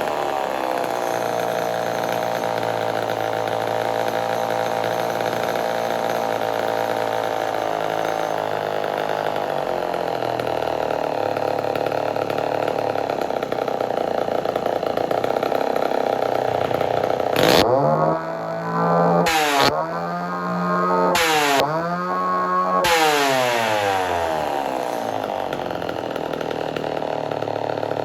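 Homelite Super XL two-stroke chainsaw engine running steadily, then revved with several quick throttle blips about two-thirds of the way in, each rising and falling back, before it settles to a steady run again.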